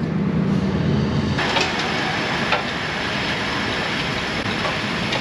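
A low steady hum, then about a second and a half in a steady rushing machine noise starts abruptly and keeps running, with a few faint clicks.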